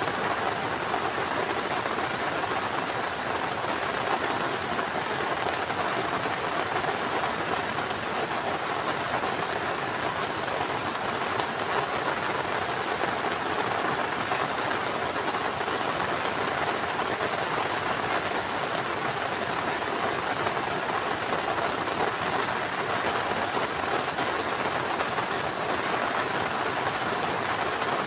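Heavy rain falling steadily: a dense, even hiss of drops on surfaces that holds constant throughout.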